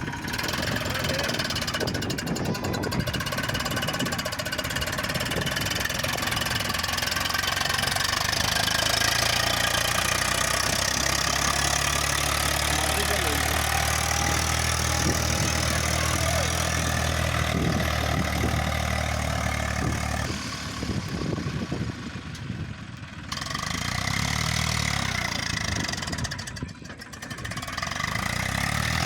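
Tractor diesel engine running steadily under load. Its low hum grows fuller partway through and drops away briefly twice near the end.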